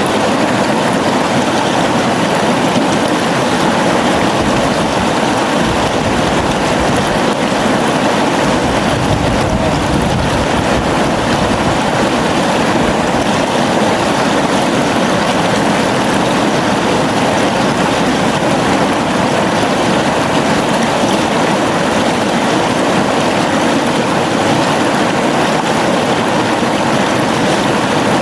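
Steady rushing of a flowing river, an even wash of water sound with no breaks.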